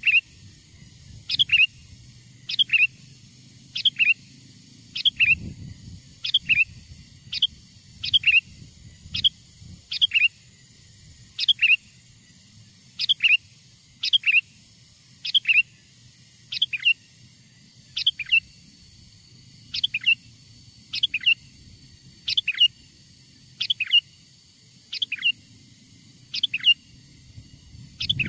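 Sooty-headed bulbul (kutilang) call, one short sharp note falling in pitch, repeated over and over about every second and a half. It is a wild bird's call used as a lure to draw other wild bulbuls near.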